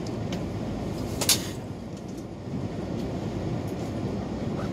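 Mugunghwa passenger train rolling out of the station, heard from inside the carriage: a steady low rumble, with one sharp click about a second in.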